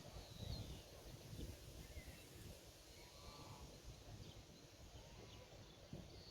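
Faint countryside ambience: scattered short bird chirps in the distance, and a faint bleat from a farm animal about halfway through, over a low rumble.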